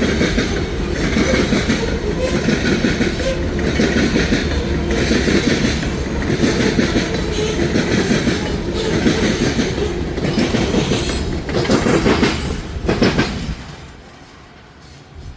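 Loaded potash freight cars rolling past on jointed track, their wheels clicking over the rail in a steady clickety-clack about once a second. The sound falls away sharply about two seconds before the end.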